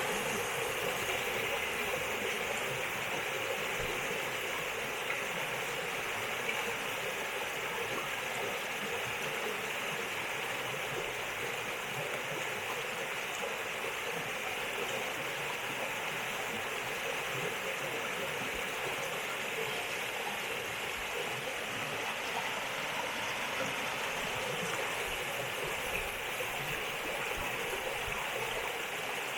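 River water flowing over rocks: a steady rush and babble that stays even throughout.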